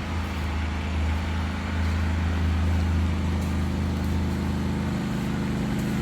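Generator engine running steadily, a low continuous hum.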